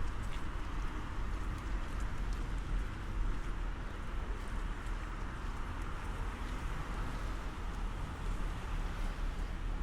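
Steady rainy harbourfront ambience: a low rumble of distant traffic under an even hiss, with faint scattered taps of light rain on an umbrella.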